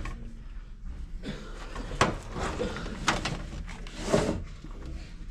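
Metal knocks and clatters from a vending machine's parts being handled during a refrigeration unit swap, with sharp knocks about two, three and four seconds in over a low steady hum.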